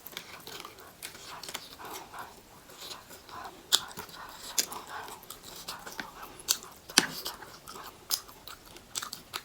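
Close-miked eating: chewing and wet mouth smacks with frequent sharp clicks and crunches, two of them standing out about four seconds and seven seconds in.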